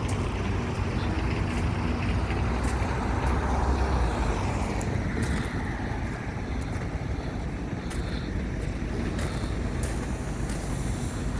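Heavy truck engine running with a steady low rumble that swells about four seconds in, then settles; a few sharp clicks near the end.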